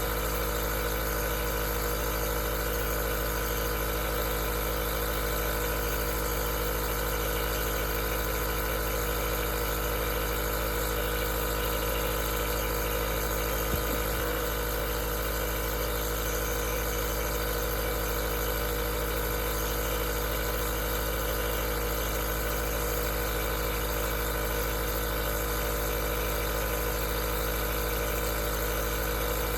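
Aerosol nebulizer's compressor running with a steady hum and hiss, with one faint tick about halfway through.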